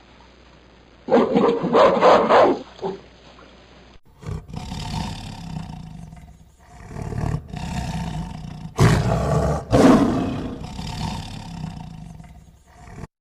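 Big cat roaring and growling in a run of long, rough calls, the loudest a little past the middle, cutting off abruptly near the end. The recording changes about four seconds in.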